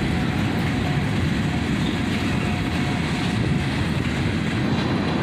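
Freight train's covered hopper cars rolling slowly past: a steady rumble of steel wheels on the rails.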